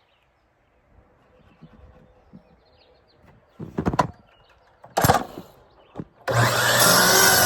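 A few knocks and clatters of wood being handled, then about six seconds in an electric power saw starts up and cuts into a wooden board, with a loud, sustained whine.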